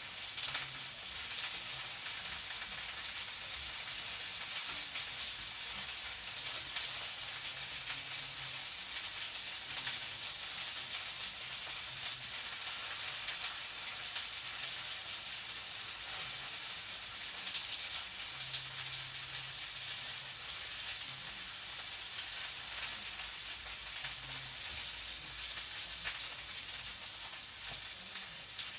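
Food frying in a pan: a steady sizzle with fine crackles, and a faint low hum that comes and goes.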